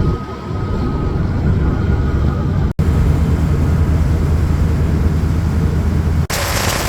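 Kawasaki KLR650 single-cylinder motorcycle engine running at a steady speed while riding, mixed with wind noise, in clips cut together twice. After the last cut, about six seconds in, a loud rushing hiss of wind takes over.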